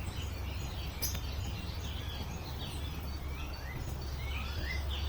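Several small birds chirping, with short rising and falling notes and quick sweeps, over a steady low rumble; a single click about a second in.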